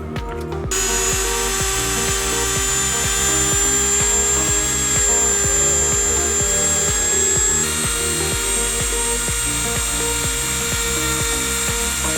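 A small high-speed power tool starts about a second in and runs with a steady high whine, its pitch stepping up slightly about two-thirds of the way through, over background music with a steady beat.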